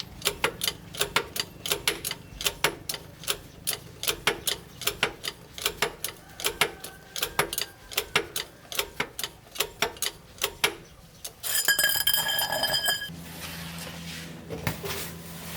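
A fast train of sharp mechanical clicks, about four to five a second, stopping about eleven seconds in. It is followed by a short high ringing tone with a hiss, then a steady low hum.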